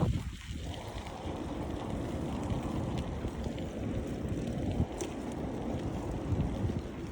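Wind buffeting the microphone of a camera on a moving bicycle: a steady rushing rumble, with a short tick about five seconds in.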